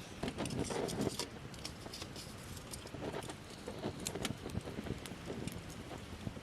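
Campfire of gathered branches crackling, with irregular sharp pops and snaps and a louder, fuller stretch about half a second to a second in.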